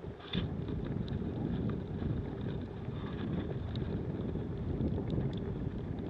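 Storm wind buffeting the microphone as a steady low rumble, with a brief lull at the start and a few faint ticks.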